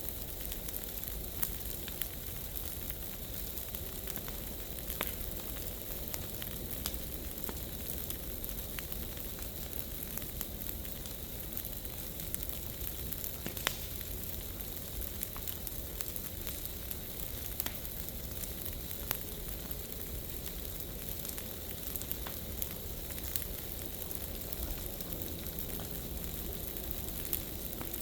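Large piles of dry leaves burning: a steady hissing crackle with scattered sharp pops, the loudest pop about halfway through.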